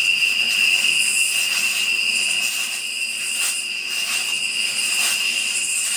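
Evening insect chorus: a steady high trill with a fainter, pulsing hiss above it, with a few faint rustles or steps about three and five seconds in.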